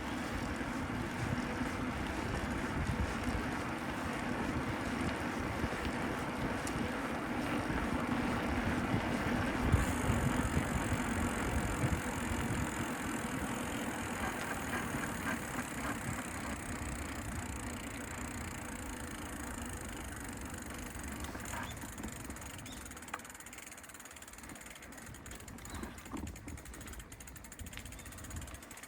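Steady rushing road and traffic noise heard from a moving bicycle. It peaks about ten seconds in and fades over the last third.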